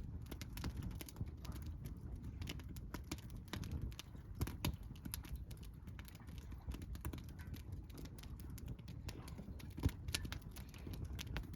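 Wood fire crackling in a Solo Stove fire pit: irregular snaps and pops of burning wood, a few louder ones about halfway through and near the end, over a low steady rumble.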